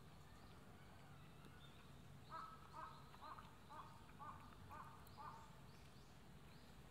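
A bird calling in a quick run of about seven short calls, roughly two a second, starting a couple of seconds in, faint over a low steady background hum.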